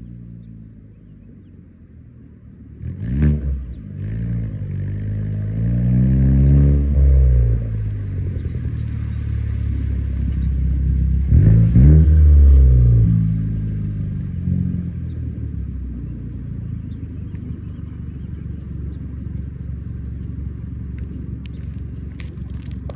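2017 Chevy Cruze's full custom exhaust while driving at low speed. The exhaust note rises sharply as the car accelerates about three seconds in and again at about eleven seconds, falling back after each, then settles into a steady drone.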